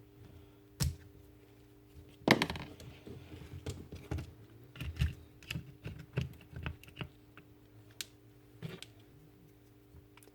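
Light clicks, taps and knocks of small plastic and metal jigsaw parts being handled and fitted together by hand, with a sharper knock about two seconds in and a run of quick small clicks in the middle.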